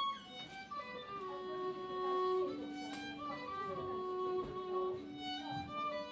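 A band playing instrumental music live, with a fiddle carrying the tune in long held notes over lower sustained notes.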